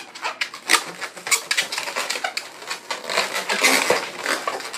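Latex modelling balloons rubbing and squeaking against each other as they are twisted and tied in, a busy run of short, sharp squeaks and crackles.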